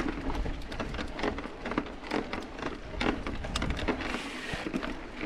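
Mountain bike tyres crunching slowly up a dirt and gravel truck trail, small stones popping and ticking irregularly under the tread, over a low rumble.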